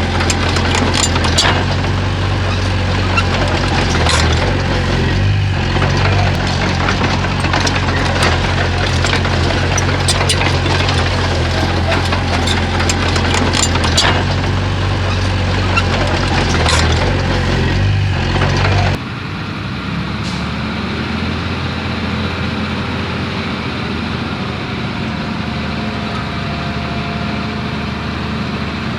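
Bulldozer's diesel engine running hard, with sharp metallic clanks and knocks scattered through it. About two-thirds of the way through it cuts off abruptly to a quieter engine running steadily.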